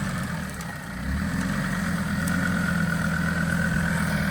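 Off-road SUV engine running steadily at low revs, a little louder from about a second in, with a faint steady whine above it.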